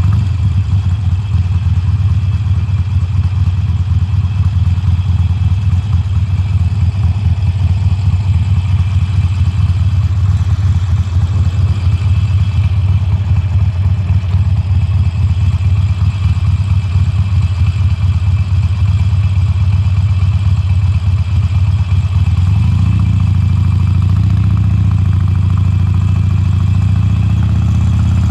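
Harley-Davidson Sportster Forty-Eight's air-cooled V-twin running through its stock exhaust at low revs, with an uneven, pulsing note. About three quarters of the way through, the note evens out and rises slightly in pitch as the engine picks up revs.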